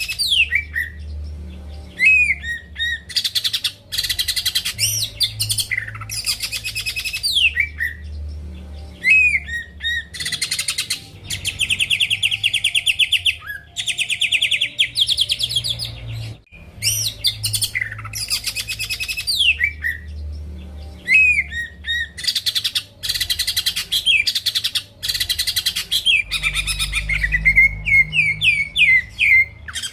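Green leafbird (cucak ijo) singing vigorously. Phrases of fast chattering trills and sharp down-slurred whistles repeat every couple of seconds, with a long buzzy rolling trill partway through.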